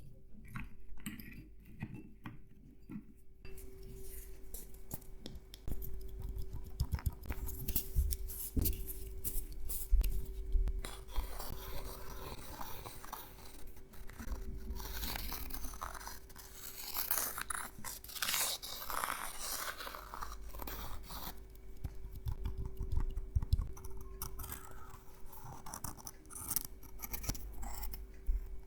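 Nuts in their shells handled close to the microphone: dense small clicks, rattles and scratches of shell against shell, busier from about six seconds in.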